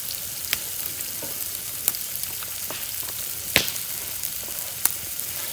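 Food sizzling in hot oil in iron cookware: a steady hiss with a few sharp pops, the loudest about three and a half seconds in.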